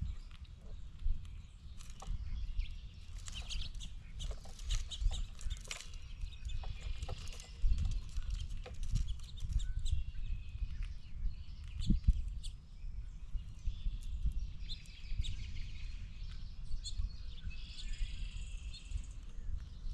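Birds calling near the camera, with many short sharp clicks and taps close to the microphone and a steady low rumble underneath.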